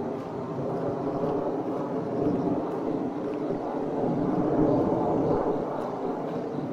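A motor vehicle's engine running steadily under way, a continuous drone that swells slightly.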